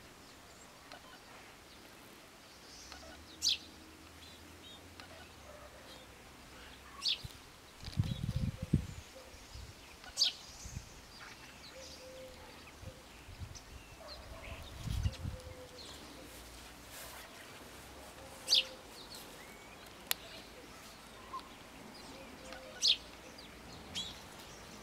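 A garden bird giving single short, sharp chirps every few seconds, over a quiet outdoor background. Two low rumbles come about eight and fifteen seconds in.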